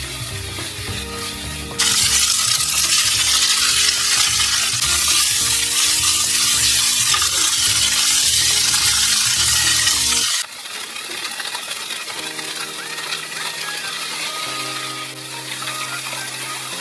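Stir-fry of thick fried tofu (atsuage) sizzling in oil in a frying pan, loud from about two seconds in until it cuts off sharply about ten seconds in, then faint. Background music plays throughout.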